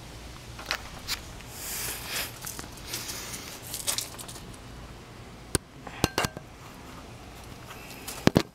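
Hard objects being handled: rustling for a couple of seconds, then a few separate sharp clicks and clinks, the loudest a quick double click near the end, over a steady low hum.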